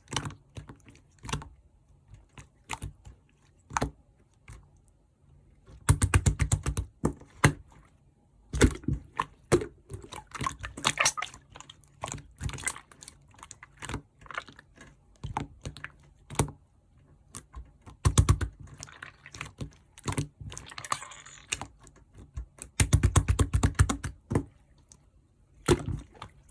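Orange clear slime being squished and pressed by hand, giving off sharp clicking pops that come in quick dense runs with short pauses between.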